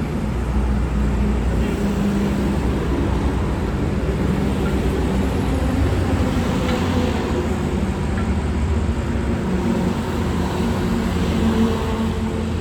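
A steady, low motor drone with a faint even hum, with no clear starts or stops.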